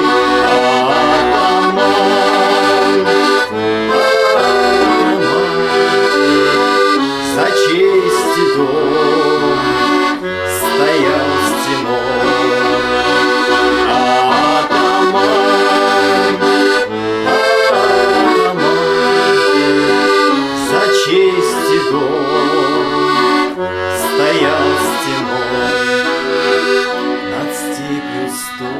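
Accordion playing an instrumental passage of a Cossack song: a continuous melody over held chords, without singing.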